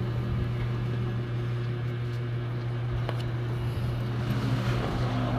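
A steady low machine hum with a faint click or knock of work about three seconds in.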